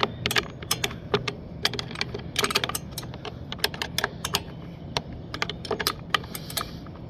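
A 10mm wrench clicking against small bolts on a lawnmower carburetor as they are turned down, in irregular clusters of sharp clicks over a low steady hum.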